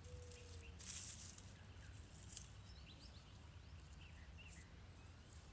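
Faint outdoor yard ambience: a steady low rumble with small birds chirping faintly here and there, and a couple of brief soft rustles, the loudest about a second in.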